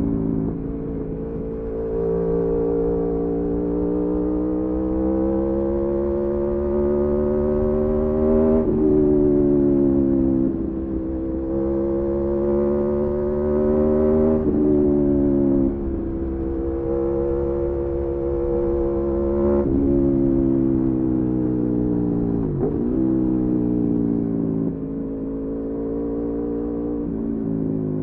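Aprilia Tuono V4 motorcycle's V4 engine pulling on the road. Its pitch climbs slowly and then drops sharply several times at gear changes.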